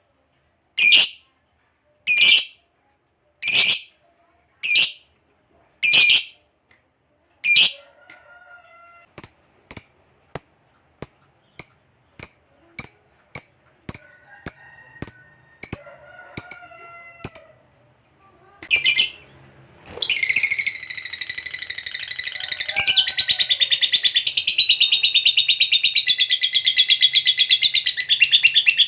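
Lovebird calling: sharp, separate high shrieks a little over a second apart, then quicker chirps about two a second, and from about two-thirds of the way in a long, unbroken, rapid chattering trill, the 'ngekek panjang' that keepers prize in a singing lovebird.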